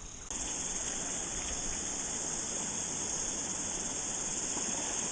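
Cicada chorus: a steady, high-pitched shrill drone that comes in suddenly just after the start and holds without a break, over an even lower hiss.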